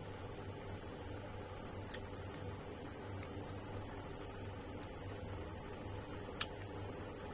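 Close-miked chewing of juicy pineapple and mango pieces, with a few short sharp clicks, the loudest about six seconds in, over a steady low hum.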